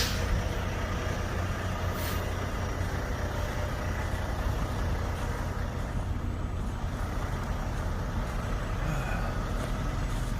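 Semi-truck diesel engines idling, a steady low rumble, with a brief hiss about two seconds in.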